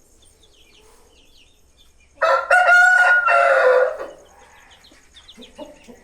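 Aseel rooster crowing once, a loud call of about two seconds that starts about two seconds in and drops in pitch at the end. Small birds chirp faintly in the background.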